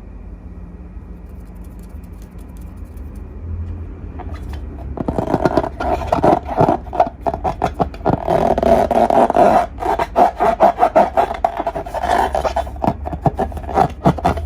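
Slime being squeezed and worked by hand, giving dense, irregular sticky clicks and crackles that start about five seconds in, over a steady low hum.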